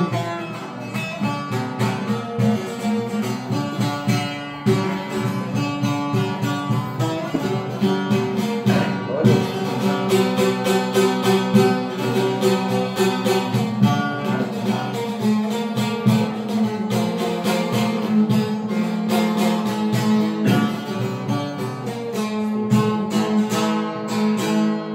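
Instrumental break in a song: a plucked string instrument plays a quick run of notes over sustained accompaniment, without singing.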